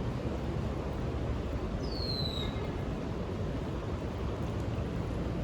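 Steady low outdoor rumble, with one short falling whistled note about two seconds in.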